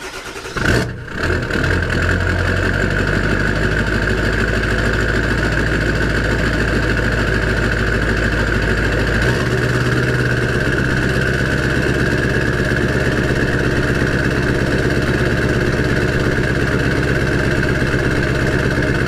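Ford 7.3 Power Stroke turbo-diesel V8, with a couple of injectors failing, cold-started in near-freezing air: it cranks and catches about a second in, then idles steadily. About nine seconds in the idle note steps up as it goes into high idle.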